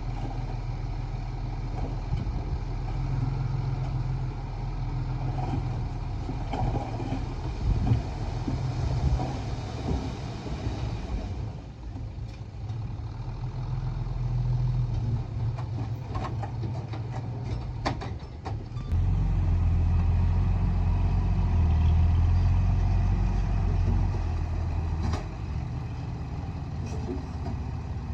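Diesel engine of earthmoving machinery running, with a few sharp metallic clanks around the middle; the engine grows louder and heavier about nineteen seconds in, as if taking load, then eases off.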